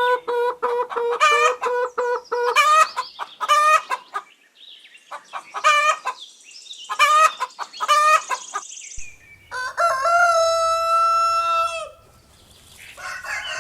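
Hens clucking and cackling in quick, repeated short calls. About nine seconds in comes one long, drawn-out call held at a steady pitch.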